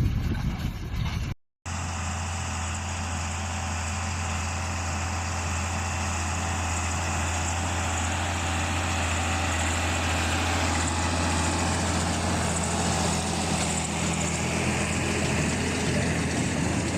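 Straw baler machine running with a steady engine drone, after a brief dropout about a second and a half in.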